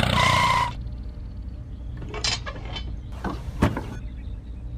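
A steady tone cuts off under a second in. Then come a few light clicks and knocks from small model parts being handled and set in place, the sharpest near the end, over a low steady hum.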